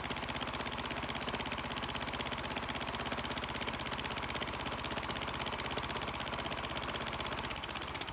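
Freshly rebuilt Kohler Courage 20 hp engine running steadily with a fast, even beat. Right at the end it begins to die away as it is shut off by cutting the anti-backfire (fuel shut-off) solenoid.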